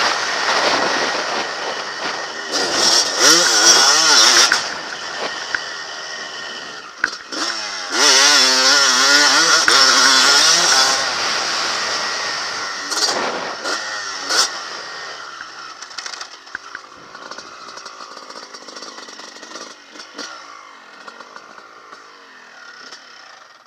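Honda CR250 two-stroke motocross bike engine revving up and down repeatedly as it is ridden, its pitch rising and falling with the throttle. The engine grows steadily fainter over the second half.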